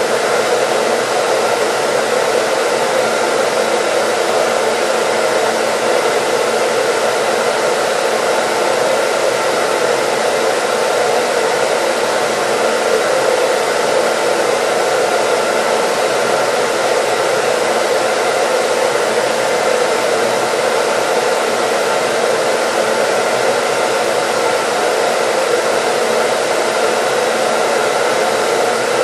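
Electric hair dryer running continuously at a steady speed, an even rushing blow of air with a faint steady motor hum under it, used as white noise.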